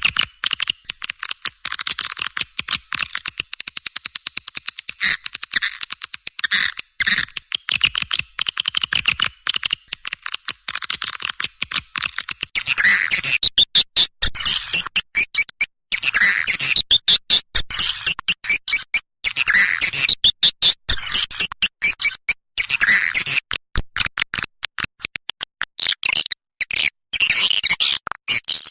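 Swiftlets twittering in a dense, rapid stream of high chirps and chatters. It is a recorded call used to lure swiftlets, and it grows louder and fuller about halfway through.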